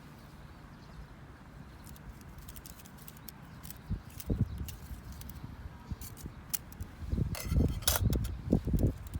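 Scattered clicks and low knocks, a few about four seconds in, then a louder cluster of knocks and rustling near the end.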